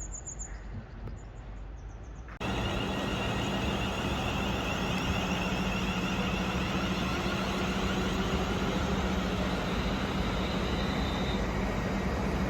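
Quiet station ambience with a couple of high bird chirps, then, after an abrupt cut about two and a half seconds in, a train's steady, loud running noise with a constant low hum.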